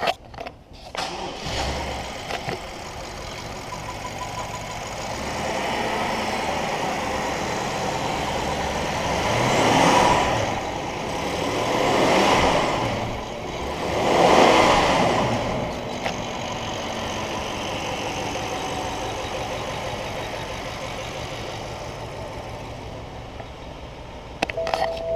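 2011 BMW 550i's 4.4-litre twin-turbo V8 starting and idling, then revved up three times about ten to fifteen seconds in before settling back to a steady idle. A few clicks at the very start and near the end.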